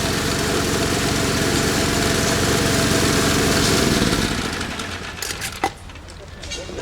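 Small engine-driven machine running steadily, then winding down and falling in pitch about four seconds in as it is shut off. A single sharp click follows near the end.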